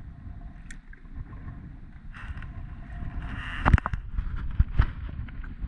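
Strong wind rumbling on the microphone, with a short swish and a few sharp knocks past the middle.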